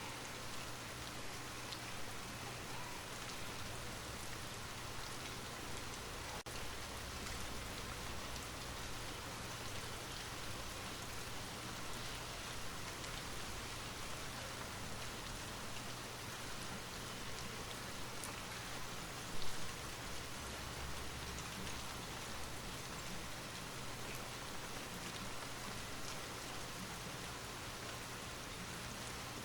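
Light rain falling steadily, with a constant hiss and scattered fine drop ticks; a brief low thump about 19 seconds in.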